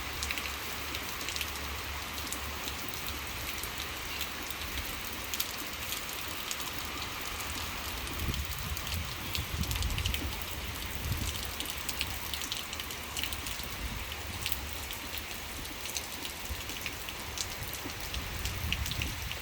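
Steady rain falling, with many individual drops ticking over a continuous hiss and a low rumble underneath.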